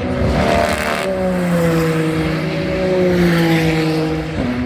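Race car engine running at a steady note that falls slowly over about four seconds, then steps back up near the end, with a rush of noise in the first second.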